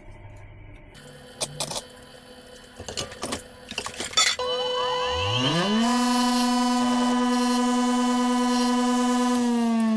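Metal clinks and knocks as a part is handled, then a drill press motor is switched on, rising quickly in pitch to a steady whine. Near the end the pitch drops a little.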